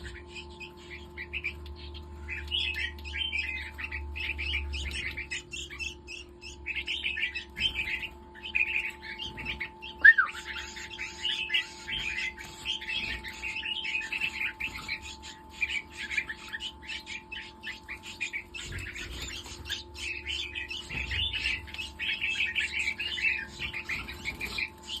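Several red-whiskered bulbuls chirping in quick, continuous runs with short pauses, over a steady electrical hum. There is one sharp, louder call about ten seconds in.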